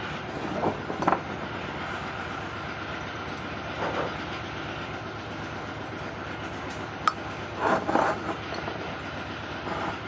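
Steady mechanical running noise with scattered metallic clinks and knocks, the sharpest a single click about seven seconds in.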